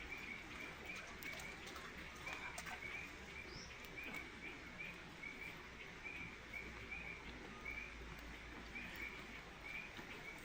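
Faint animal calls: short high chirps repeating two to three times a second, over a steady hiss.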